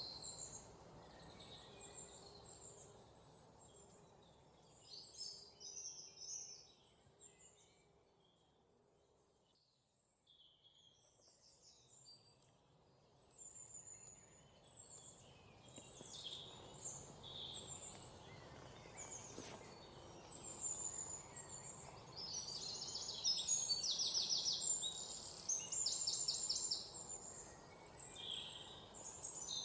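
Several songbirds chirping and singing over a soft outdoor hiss, fading almost to nothing about a third of the way in and then building again, with rapid trills the loudest part near the end.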